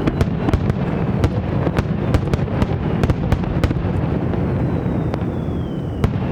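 Aerial fireworks display: a dense, continuous rumble of bursting shells with many sharp cracks and pops at irregular intervals, and a thin falling whistle from about four to six seconds in.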